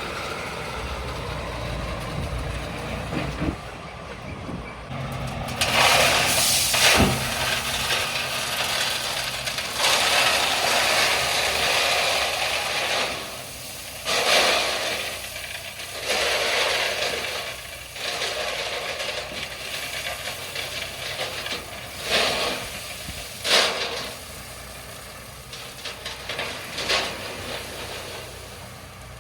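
LS MT357 tractor's diesel engine running under load, with repeated loud bursts of scraping and grinding as the bucket shaves hard-packed gravel and clay, the longest lasting two to three seconds.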